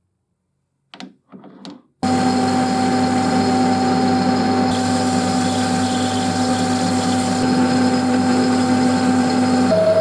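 Workshop power machine starting abruptly and running steadily with a hum and whine over a noisy rush, after a couple of faint short noises. Near the end its pitch drops slightly.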